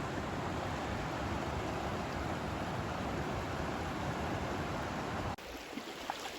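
Steady rushing of river water. About five seconds in it cuts off suddenly to a quieter, thinner rush.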